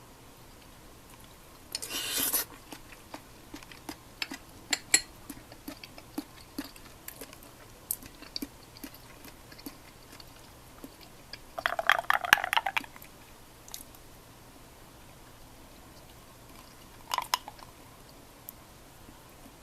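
Intermittent handling sounds of food and kitchenware: scattered light clicks and taps, with three short rustling, crackling bursts, the longest and loudest about twelve seconds in.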